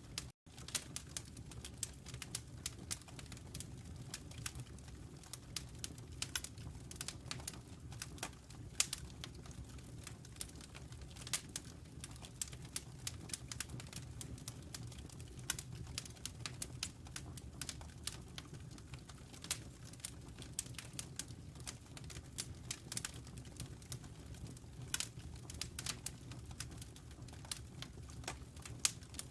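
Log fire crackling: irregular sharp pops and snaps from burning wood over a steady low rumble of the flames. There is a split-second dropout in the sound just after the start.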